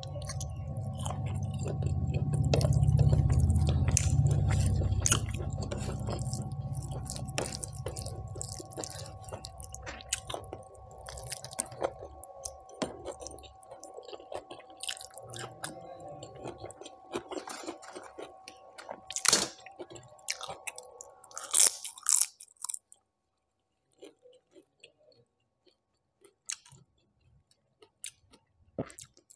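Close-miked chewing and mouth sounds of a person eating curry and rice by hand: wet smacks, clicks and some crunching. A low rumble fills the first dozen seconds, and a faint steady hum stops about two-thirds of the way through, leaving sparser chewing clicks.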